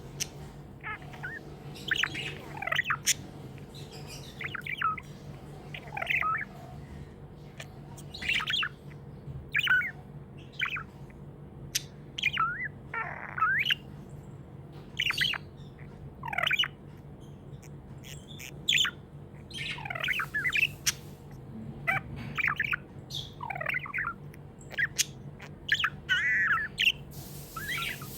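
Budgerigars chirping and warbling in quick short calls, one after another, with the odd harsher squawk. A steady low hum runs underneath.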